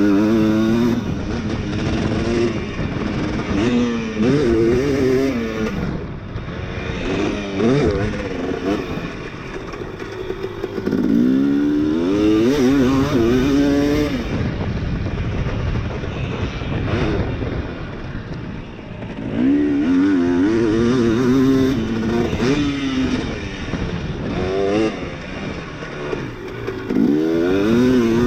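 Dirt bike engine being ridden hard, revving up and dropping back in repeated bursts as it climbs through the gears and lets off, about five or six times.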